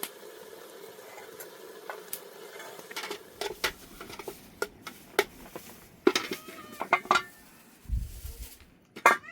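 Metal utensils clinking and scraping against a cooking pot, a string of sharp clinks through the second half.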